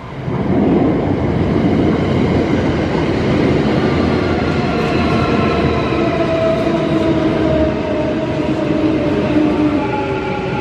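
Kintetsu electric commuter train running past at close range: a steady rumble of wheels on rail with several whining motor tones over it. The noise jumps up sharply just after the start as the train reaches the microphone, then holds.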